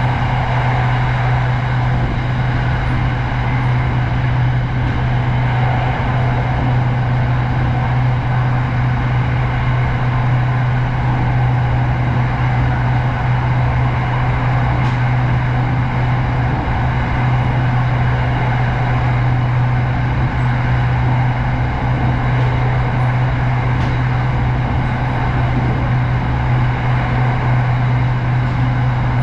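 Steady vehicle running noise: a constant low hum under an even hiss, unchanging throughout.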